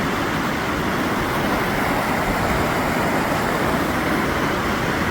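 Floodwater rushing past in a steady, even wash of noise.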